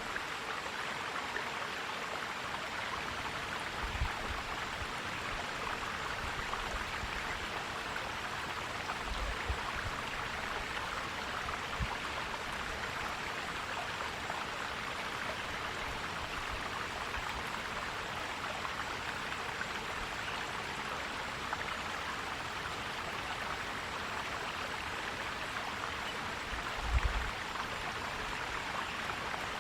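Forest stream flowing and gurgling steadily, with a few brief low thumps, the largest near the end.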